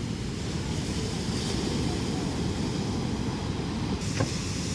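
Steady low rumble of surf and wind buffeting the microphone on the beach, with one short knock about four seconds in.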